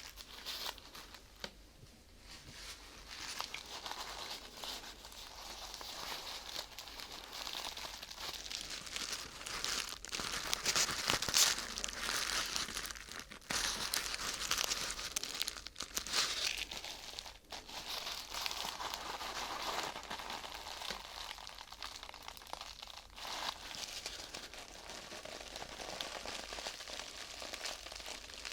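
Thin crinkly sheet material, such as plastic film or paper, being crumpled and crinkled by hand in a continuous dense crackle. It is loudest about ten to twelve seconds in and pauses briefly a few times.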